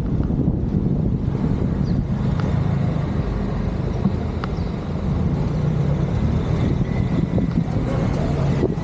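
Steady motor-vehicle engine and road rumble, low and continuous.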